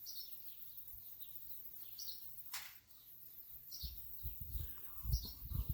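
A songbird repeats a short chirp that falls in pitch, about every second and a half. From about four seconds in, gusts of wind buffet the microphone with a low rumble.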